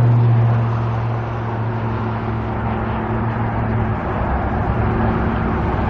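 Heavy diesel work vehicle running close by with a steady low engine hum, which fades about four seconds in, over general construction-site traffic noise.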